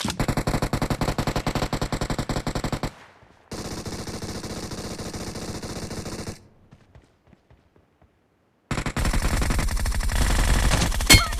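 Video game automatic gunfire: rapid machine-gun fire of about ten shots a second, a second long burst, then about two seconds of near quiet with a few faint clicks before the firing starts again.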